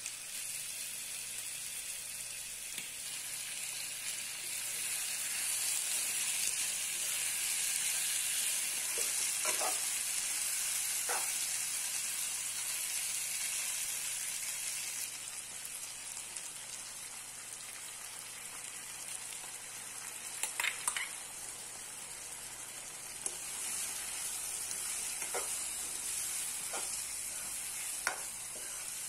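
Spice-coated chicken pieces sizzling as they fry in a nonstick pan, a steady hiss that swells for a while and then eases. A metal spoon clicks and scrapes against the pan now and then as the pieces are stirred.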